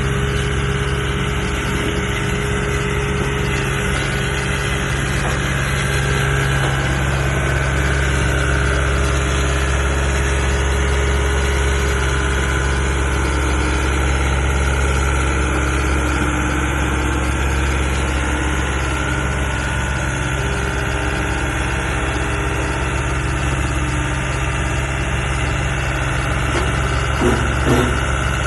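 Skid steer engine running steadily, its higher tones shifting slightly in pitch now and then. There are a couple of short knocks near the end.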